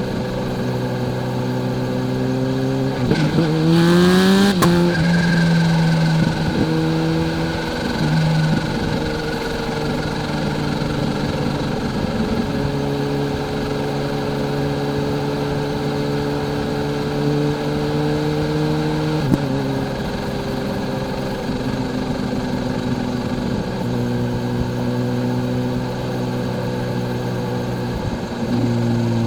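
Kawasaki Z H2's supercharged inline-four engine under way: revs rise in a short burst of acceleration about three to four seconds in, then the bike cruises steadily, the engine note stepping up or down a few times.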